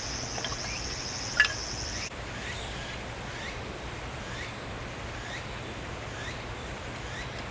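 Insects chirring outdoors in a fast pulsing high trill that cuts off abruptly about two seconds in, leaving fainter short chirps repeating roughly every half second. A single sharp knock sounds about a second and a half in.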